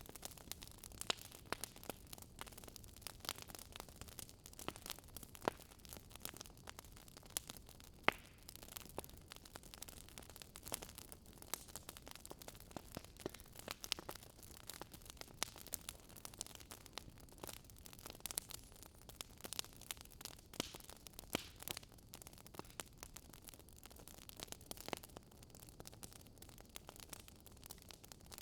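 Wood fire crackling in a fireplace: irregular sharp pops and snaps, several a second, over a low steady hiss, with one louder snap about eight seconds in.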